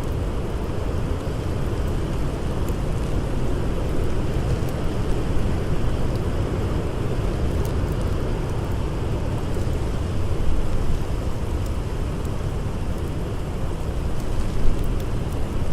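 Blizzard wind blowing steadily, a deep, continuous noise with a hiss above it, and a few faint, sparse crackles of a campfire.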